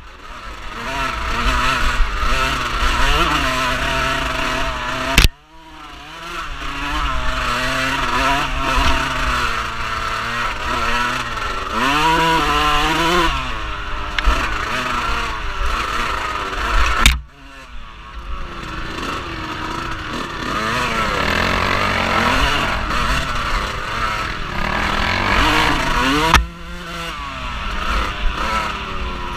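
Off-road vehicle engine running and revving up and down as it is ridden, with wind noise on the microphone. The sound breaks off abruptly and starts again three times, about 5, 17 and 26 seconds in.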